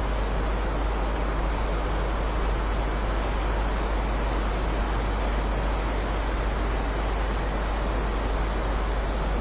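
Steady heavy rain: a dense, even hiss with a deep low rumble underneath, unchanging throughout.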